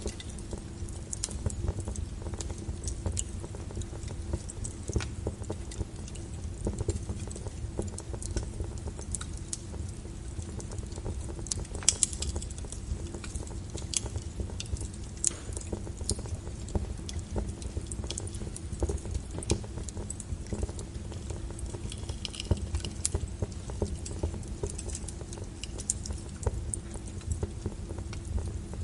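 Log fire burning in a fireplace: irregular sharp crackles and pops of burning wood over a low steady rumble of the flames, with a louder pop about twelve seconds in.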